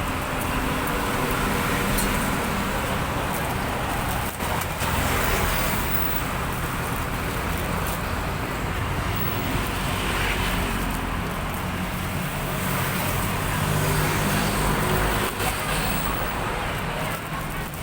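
Steady rumble of road traffic, with a few faint knocks.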